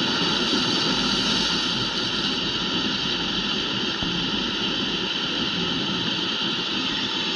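Speedboat running steadily under way, its engine noise and rushing water blending into one loud, even noise.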